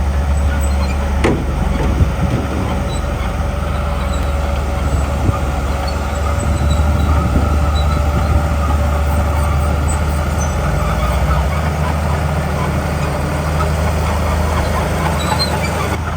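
Komatsu D41P bulldozer's diesel engine running steadily under load with a low drone, with a steady whine over it and a sharp click about a second in.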